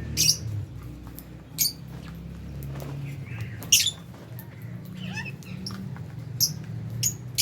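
A lovebird flock in an aviary giving sharp, shrill chirps and squawks, about five loud calls spaced a second or more apart with softer chirps between them. A steady low hum runs underneath.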